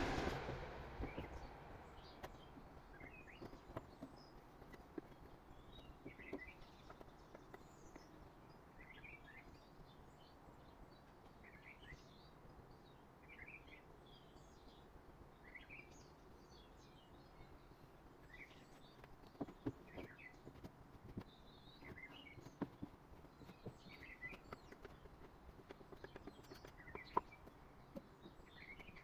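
A small bird chirping over and over, short calls about once a second, against faint background noise. A few faint knocks come in later, and a louder noise dies away in the first second.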